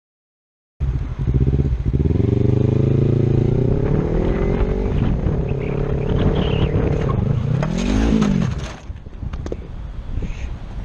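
A vehicle engine comes in abruptly about a second in, rising in pitch as it accelerates, then holding steady. Near the end it revs up and back down once, then drops off sharply to a quieter rumble.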